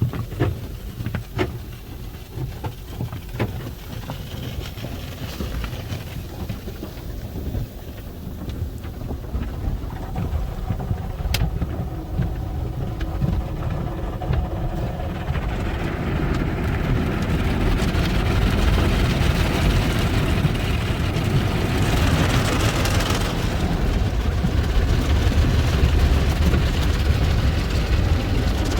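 Automatic tunnel car wash heard from inside the car: a few scattered taps and clicks at first, then spraying water and washing equipment building to a loud, steady hiss over a low rumble from about halfway.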